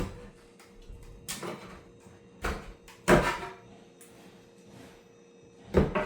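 Scattered knocks and clatter of boards and debris being handled during demolition work, about five separate hits, the loudest a little past three seconds in, over a faint steady hum.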